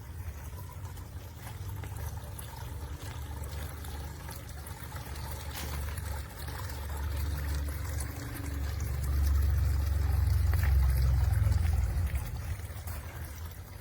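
Water pouring and trickling down the tiers of a four-tier cascade garden fountain, under a low rumble that swells about nine seconds in and eases off near the end.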